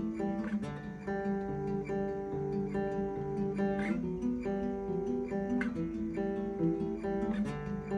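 Martin OM-18 Authentic 1933 VTS steel-string acoustic guitar being played: a continuous flow of plucked notes and chords, changing several times a second.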